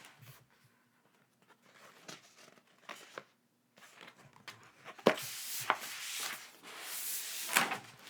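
Packaging being handled and unwrapped: soft rustling, then crinkling and tearing with a few sharp clicks and snaps in the second half.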